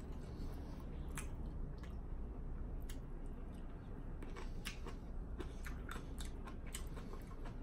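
A person chewing a mouthful of toasted sourdough meatloaf sandwich close to the microphone: irregular wet smacking and crunching clicks, coming thicker in the second half.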